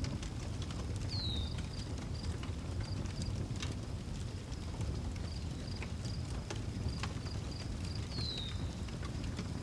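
Outdoor wood fire crackling with scattered pops over a steady low roar, with crickets chirping in an even high pulse. A bird gives a short falling whistle twice, about a second in and again near the end.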